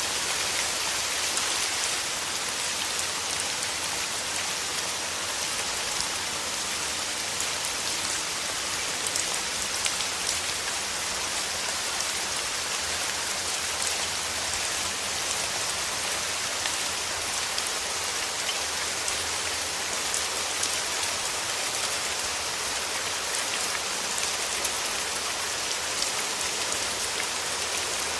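Steady rain falling, a dense even hiss full of fine raindrop ticks that keeps on without change.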